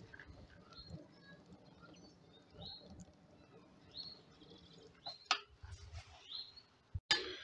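Outdoor birdsong: a short rising chirp repeated every second or two. A sharp metal clack comes about five seconds in as the steel firebox door is shut, and another click follows near the end.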